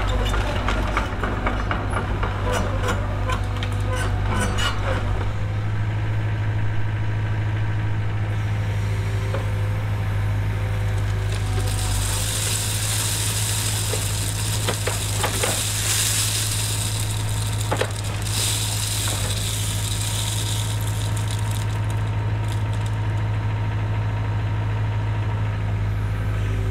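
Cat 307 excavator's diesel engine running steadily, with a scatter of small clicks and knocks over the first few seconds and a loud hissing rush from about twelve to twenty-one seconds in.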